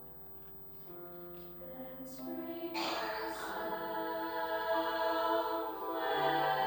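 High school choir singing held chords, soft at first, then swelling much louder about three seconds in, with a few sharp 's' consonants from the words.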